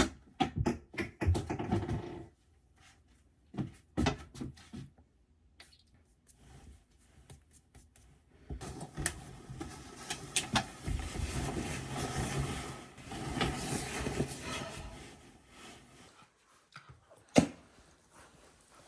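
Household handling noises: a quick run of clicks and knocks, then a longer stretch of rustling with clicks through the middle, and a single sharp knock near the end.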